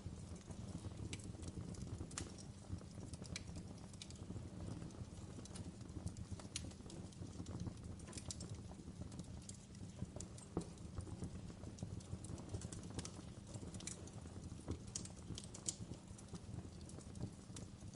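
Wood fire in a fireplace crackling: irregular sharp pops and snaps from burning logs over a steady low rumble of the flames.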